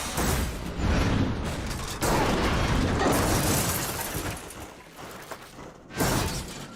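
Film sound effects of a violent car crash: dense crunching and shattering noise that tails off over several seconds, then one sharp impact near the end.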